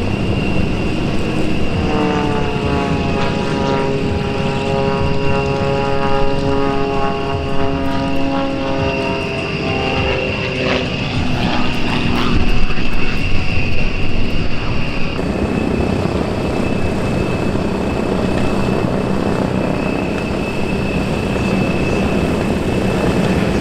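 Propeller-driven warbird flying past, its engine note dropping slowly in pitch as it goes by, followed by steady propeller and engine noise that swells about halfway through.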